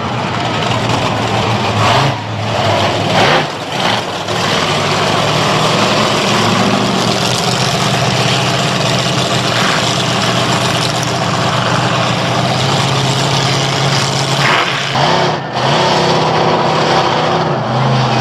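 Monster truck engine running loud, its revs rising and falling several times.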